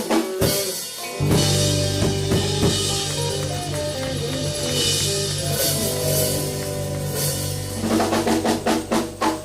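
Rock band playing: drum kit and bass guitar under a held, sustained chord, then a run of quick drum hits near the end.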